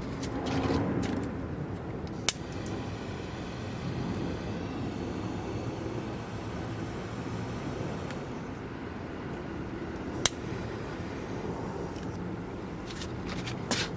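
Campfire burning with a steady low rush and two sharp pops of wood, one a couple of seconds in and one about ten seconds in.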